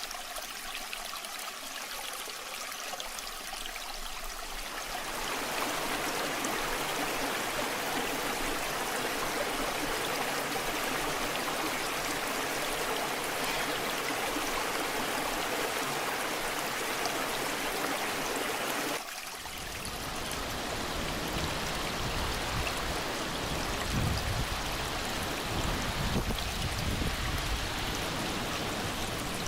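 Waterfall water rushing in a steady hiss that grows louder about five seconds in. About 19 seconds in it changes abruptly to a deeper, fuller rush.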